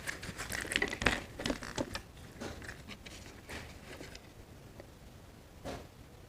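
Close-up eating sounds with roti and paneer being handled: a dense run of small crackles and clicks in the first two seconds, then a few scattered clicks, one more near the end.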